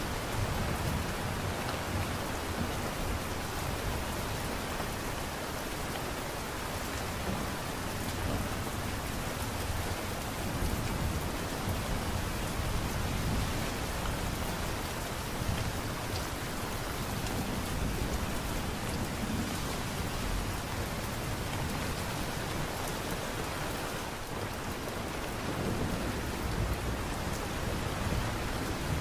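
Steady light rain falling on a surface, an even hiss with a low rumbling undertone.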